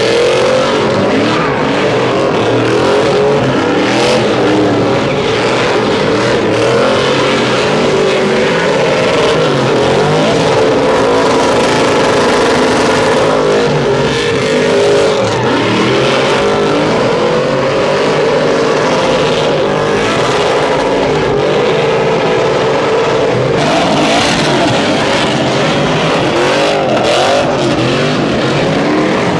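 Several truck engines revving hard at once, their pitches rising and falling over one another in a continuous loud din.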